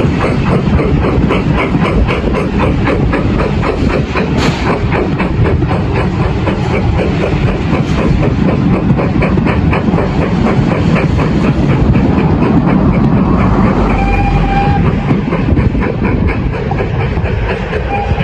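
Railway passenger coaches rolling past, their wheels clicking in a fast, steady rhythm over a low rumble; the clicking stops about three-quarters of the way through as the last coach goes by.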